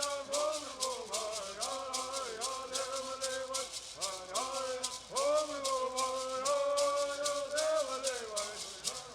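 Bird singing: a traditional Southern California bird song sung by voices in unison, its melody rising and falling, with gourd rattles shaken in a steady, rapid beat.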